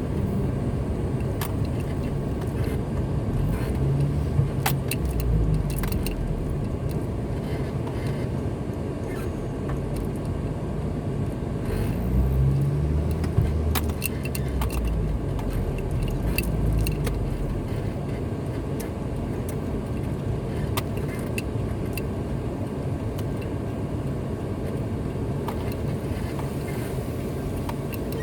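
Car driving on the road, heard from inside: a steady low rumble of engine and tyres that swells twice, with scattered small clicks and rattles throughout.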